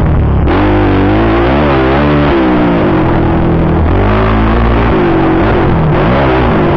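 Motocross bike engine revving hard, its pitch rising and falling repeatedly with throttle and gear changes.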